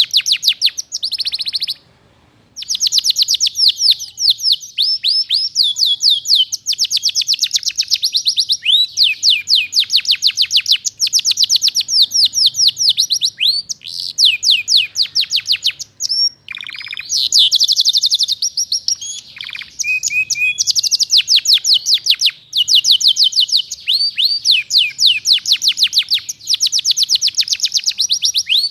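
Domestic canary singing a long, fast song, full of learned phrases from other birds: rapid trills of quickly repeated, falling high notes, with brief breaks about two seconds in and again around the middle.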